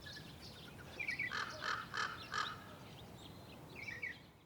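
Birds chirping and calling, with a run of about four louder repeated calls a second or so in.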